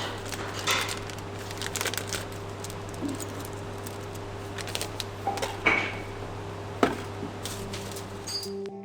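Small metal parts and tools being handled on a workbench: scattered clicks, clinks and knocks, the sharpest two about six and seven seconds in, over a steady low electrical hum.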